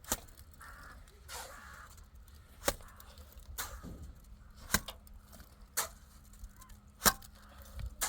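A series of sharp knocks or strikes, about seven of them, spaced roughly a second apart, like chopping or splitting wood.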